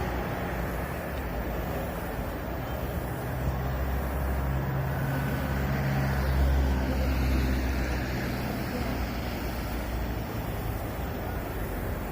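Low motor-vehicle engine hum over steady road-traffic noise, swelling for several seconds in the middle and then easing off.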